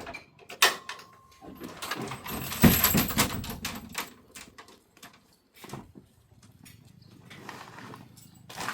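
Knocks and clatter of metal motorcycle parts and tools being handled, with one strike ringing briefly about a second in and a longer rattling clatter in the middle.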